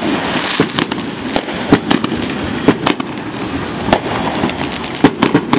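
Fireworks going off: an irregular string of sharp bangs and pops, several a second, over a steady background hiss.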